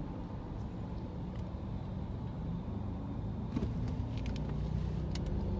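A car's engine running, heard from inside the cabin as a steady low rumble, with a few light clicks a little past halfway.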